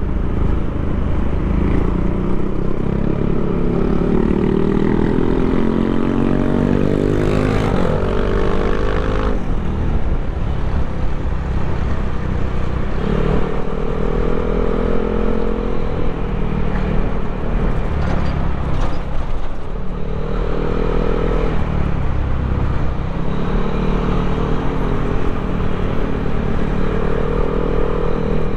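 Yamaha Aerox scooter's single-cylinder engine, bored and stroked to 200cc, running loudly: its revs climb steadily for several seconds, fall away suddenly, then are held up again several times.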